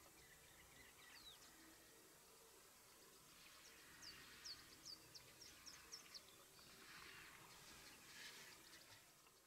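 Faint bush ambience with a bird calling a quick series of short, falling whistled notes in the middle, and two soft swells of hiss near the end.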